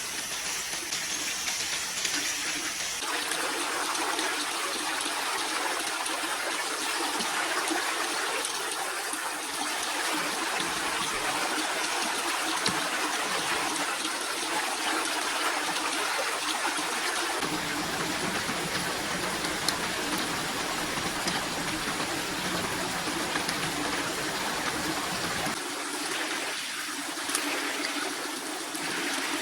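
Water running steadily, an even rushing like a stream, a little deeper and fuller through the middle stretch.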